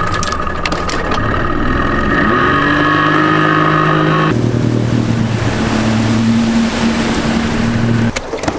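Boat motor running loud and steady. Its pitch rises about two seconds in, shifts suddenly a little after four seconds and cuts off near the end.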